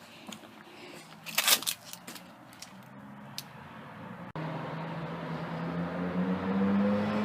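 A few crunching scuffs and clicks, like footsteps on gravel. After a sudden cut a little over four seconds in, a motor vehicle's engine is heard over steady road noise, its pitch rising slowly and growing louder toward the end, as if passing close by.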